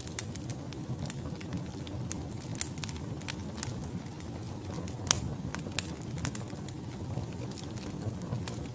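Wood fire burning in a fireplace: a steady low rumble of flames with irregular sharp crackles and pops from the burning logs, two louder pops about five and six seconds in.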